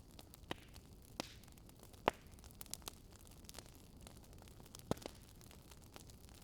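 Wood fire crackling: irregular sharp pops over a soft steady hiss, with the sharpest snaps about two seconds in and about five seconds in.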